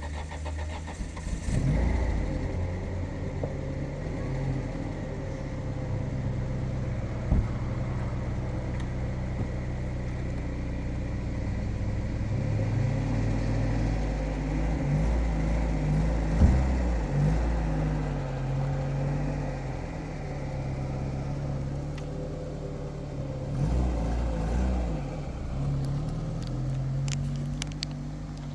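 A vehicle engine running, its pitch rising and falling several times as it is revved and driven. A few sharp knocks are heard along the way.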